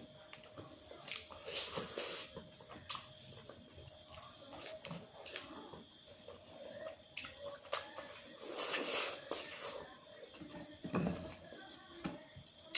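Close-miked eating sounds: wet chewing and mouth noises with scattered small clicks, and a longer, louder noisy burst about nine seconds in.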